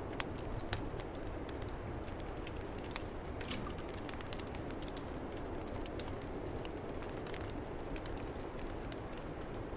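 Wood fire crackling with scattered sharp pops over a steady rush of snowstorm wind.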